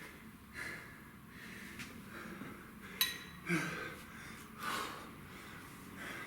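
A man breathing hard during kettlebell exercise, with forceful exhales about every second or so. There is one short metallic clink about three seconds in.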